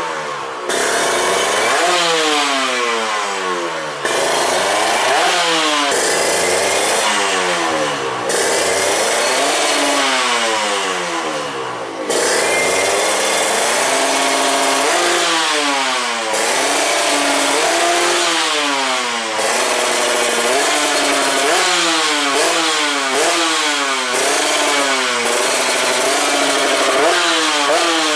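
Kawasaki Ninja 150 R two-stroke single-cylinder engine with an aftermarket Vyrus stainless exhaust, revved again and again while the carburettor and ignition timing are tuned. The pitch climbs and falls back in long sweeps at first, then in quicker, shorter blips near the end.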